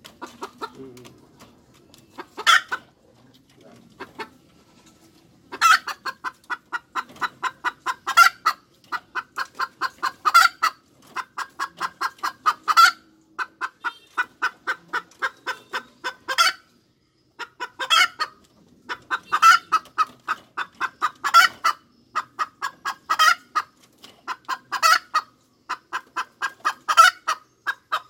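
Hen cackling: runs of quick, rapid clucks, each climbing to a louder drawn-out squawk about every two seconds. The cackle begins about five seconds in, after a few scattered clucks, and breaks off for a moment around two-thirds of the way through.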